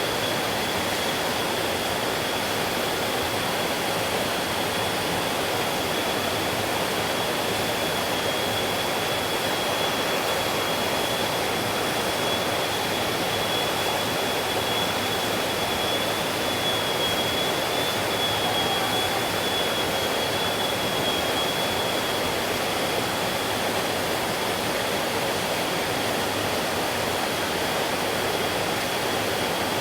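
Mountain stream flowing, a continuous even rush of water with no let-up. A thin, steady high-pitched tone runs through it, a little stronger in the middle.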